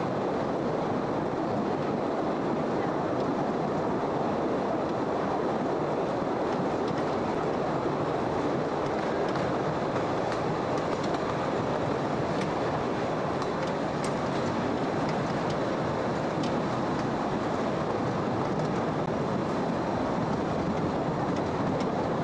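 Postojna Cave's narrow-gauge tourist train running steadily, heard from aboard: a continuous even noise of the wheels on the rails, with scattered faint clicks.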